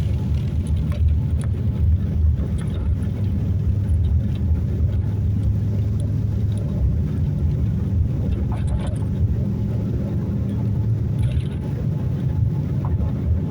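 Steady low rumble inside the cabin of a Boeing 787-9 airliner: engine and airflow noise, even throughout with a few faint ticks.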